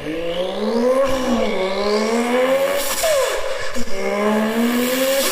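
A man imitating a race car with his voice as it accelerates through the gears. The engine-like note climbs and drops sharply at each shift, in about three pulls, like a flyby.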